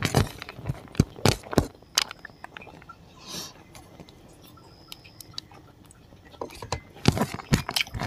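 Close-miked chewing and lip smacking of a mouthful of rice and spicy pork curry. The smacks come thick in the first two seconds and again from about seven seconds in, with a quieter, sparser stretch between.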